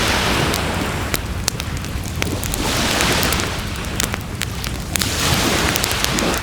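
Wood fire crackling with many sharp pops and snaps, over surf that swells and fades three times, about every two and a half seconds.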